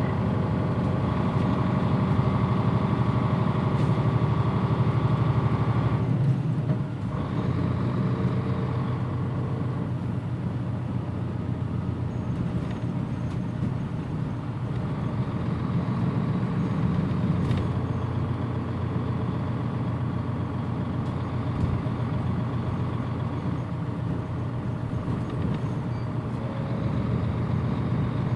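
Mitsubishi PJ-MP35JM city bus running under way, its diesel engine making a steady drone. About six seconds in, the engine sound drops and its note changes, then settles again.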